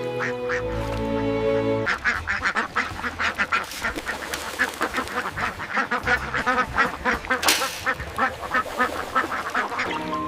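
Many ducks quacking in a rapid, overlapping chatter, starting about two seconds in and stopping shortly before the end. Music with sustained notes plays at the start and comes back at the end.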